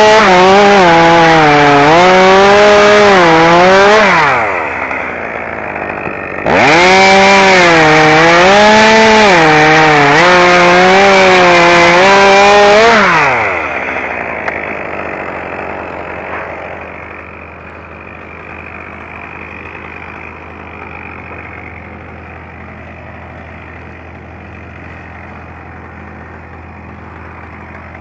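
Two-stroke chainsaw at full throttle cutting wood, its pitch dipping and recovering as the chain bites. It drops back about four seconds in, revs up again for a second cut of about seven seconds, then falls to a steady idle for the second half.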